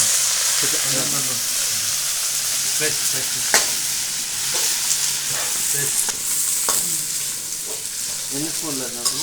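Mint and coriander leaves sizzling in hot oil with fried onions and whole spices, being stirred, with sharp clicks of the stirring spoon against the pan every second or so.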